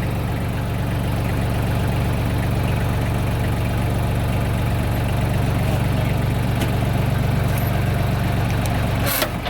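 A vehicle engine idling steadily, with a sharp click near the end.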